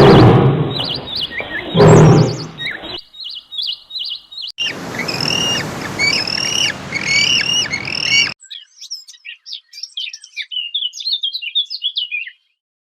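Birds chirping and calling in several short recordings cut one after another: first chirps over a loud rushing noise, then a repeated arched call, then a fast run of high chirps. The sound cuts off abruptly shortly before the end.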